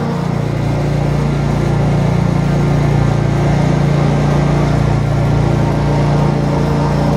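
Lawn mower engine running steadily under load, a constant low engine note with no change in speed.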